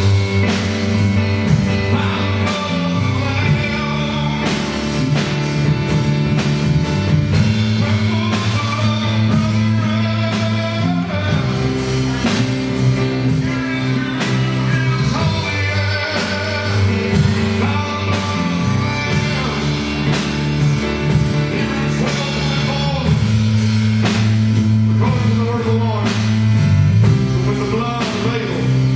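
Live gospel praise band playing, with drum kit, bass guitar and piano under singing.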